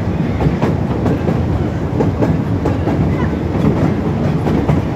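Open-sided carriage of a narrow-gauge park railway rolling along the track: steady wheel rumble with clickety-clack knocks over the rail joints a few times a second.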